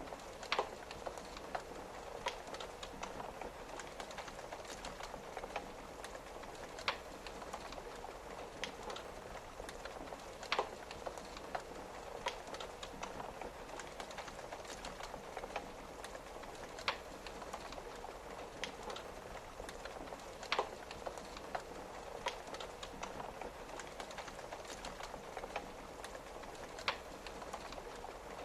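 Rain pattering steadily on a window together with a crackling log fire, with about six sharp, louder pops from the fire spread every few seconds.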